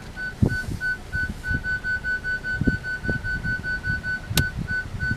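A car's parking sensor beeping, one high tone repeated, quickening to about six beeps a second in the middle and slowing again near the end: the warning of an obstacle close to the car. Low thumps run underneath, with a sharp click about four and a half seconds in.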